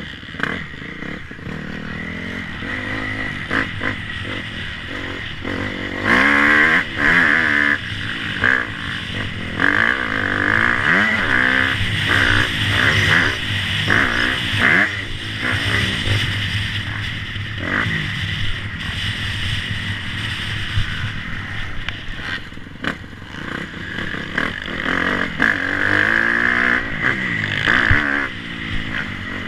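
Motocross motorcycle engines revving hard and easing off again and again, the pitch rising and falling every couple of seconds.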